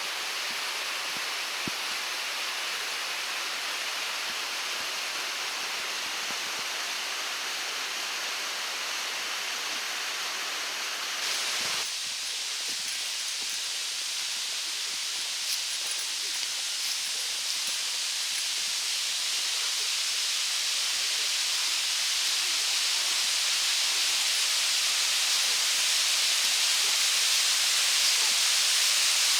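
Rushing water of a mountain gorge stream and waterfall, a steady hiss that changes abruptly a little over ten seconds in and then grows slowly louder.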